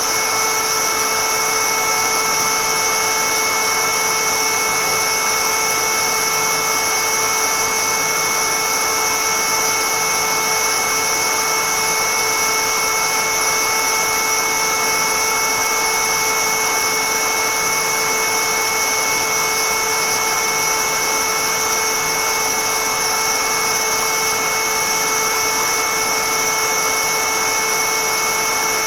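High-speed electric motor of a woodworking power tool running steadily at full speed, a constant high whine over a hiss.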